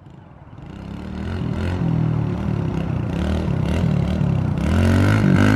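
Kawasaki KLX110 minibike's small single-cylinder four-stroke engine revving up and down as the bike is ridden, growing louder as it comes closer, loudest near the end.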